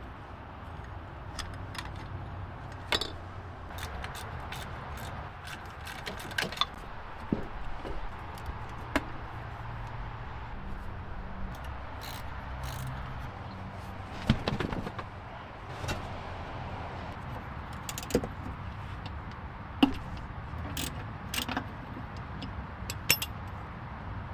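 Scattered sharp clicks, clinks and small knocks, about a dozen and a half at uneven intervals, over a steady low hum.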